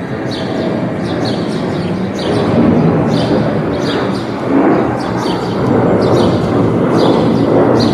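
A small bird chirping over and over, about twice a second, over a loud low rumble that swells and grows louder toward the end.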